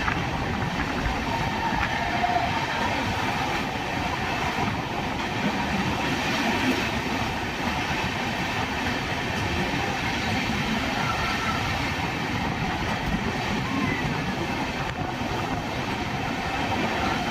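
Passenger train running steadily through a long rock tunnel: a continuous, even rumble of wheels and carriages. A few faint short squeaks sound over it.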